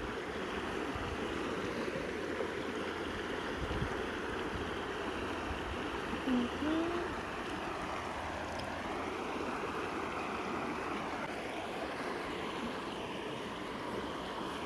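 Steady rush of flowing stream water, with a brief rising note about six seconds in.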